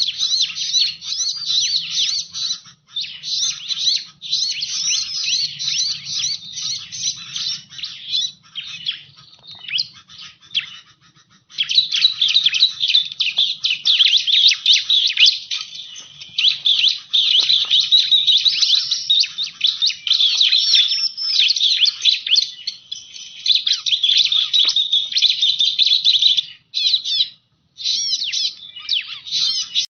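Bar-winged prinia (ciblek) song: rapid, high-pitched chattering trills in near-continuous strings, broken briefly about a third of the way in and again near the end.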